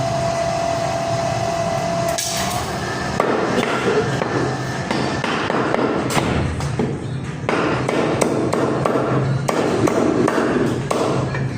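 Butcher's cleaver chopping mutton, with repeated sharp chops at an uneven pace through most of the clip, under music.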